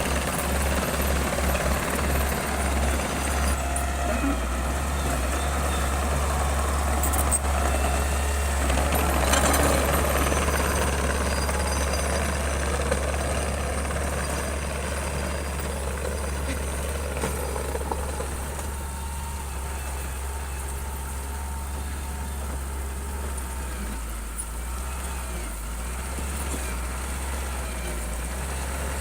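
Bulldozer's diesel engine working, a steady low drone, with a rougher mechanical noise over it that dies down about two-thirds of the way through.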